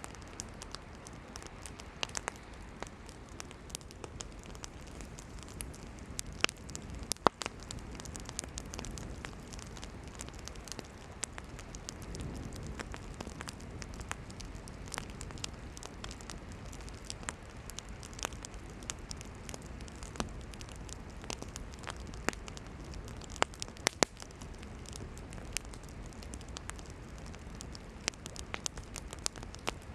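Wood campfire burning: a steady hiss of flame with frequent sharp crackles and pops from the firewood, a few of them much louder snaps.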